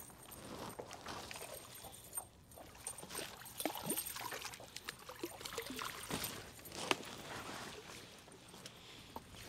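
A hooked trout splashing and thrashing at the surface as it is netted beside a kayak, with water sloshing and the clicks and knocks of the landing net and rod gear; one sharp knock about two-thirds of the way through.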